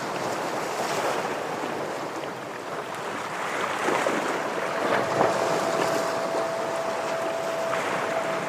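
Ocean waves washing and breaking against shoreline rocks, swelling about four to five seconds in. A thin, steady high tone comes in about halfway through and holds.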